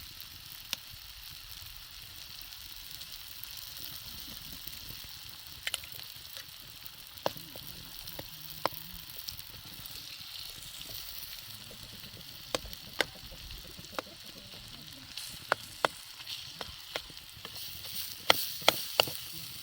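A steady hiss with scattered sharp clicks and knocks, which come more often near the end.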